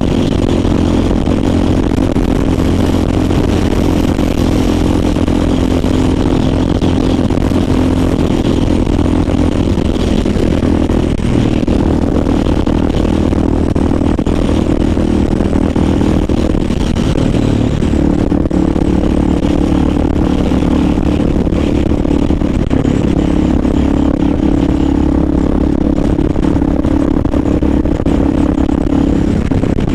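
Honda XR dual-sport motorcycle's single-cylinder engine running at highway speed, its note steady with a few changes in pitch as the throttle or gear changes, over a constant rush of noise.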